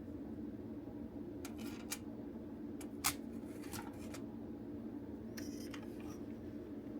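Light clicks and taps of plastic toy parts being handled during the disassembly of a DX Buggle Driver Zwei belt, a few scattered ones with the sharpest about three seconds in, over a steady low hum.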